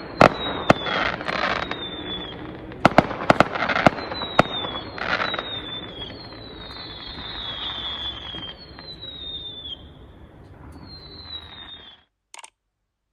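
Fireworks going off: sharp bangs and crackling bursts, with several whistles that each fall slightly in pitch, one after another. The display sound cuts off suddenly about twelve seconds in.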